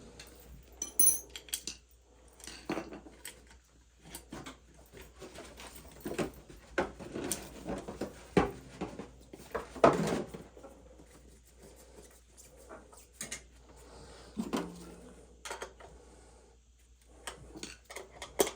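Irregular metal clinks, taps and clanks of parts and tools being handled while an oil-fired steam boiler is being reassembled after cleaning, with a louder knock about ten seconds in.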